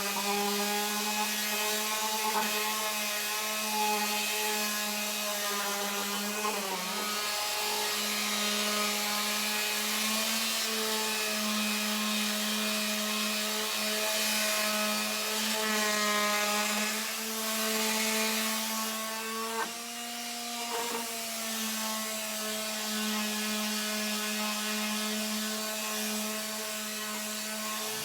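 Electric palm sander with 80-grit paper sanding a rough-sawn hardwood board. The motor hums steadily over the rasp of the paper on the wood, and its pitch sags and wavers now and then as it is pressed and moved.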